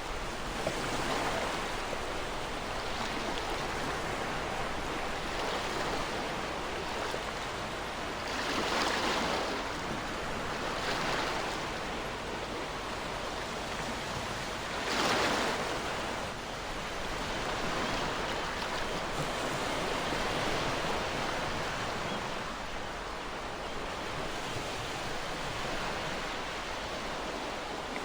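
Ocean waves washing on a shore in a continuous wash of surf, with louder waves breaking about 9, 11 and 15 seconds in, the one at 15 seconds the strongest.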